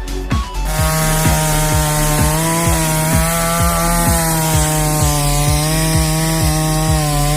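Chainsaw running at full revs, cutting through a rotten tree trunk, its pitch wavering slightly under load; it starts about a second in. Underneath, electronic music with a steady kick-drum beat.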